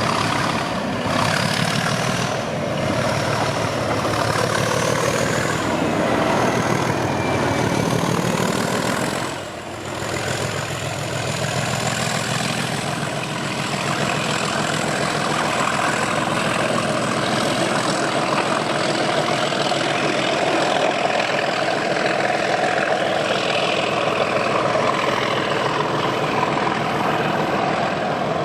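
English Electric Class 37 diesel locomotive's 12CSVT engine working under power, its turbocharger whistle rising in pitch over the first several seconds and then holding steady. The level dips briefly about nine seconds in.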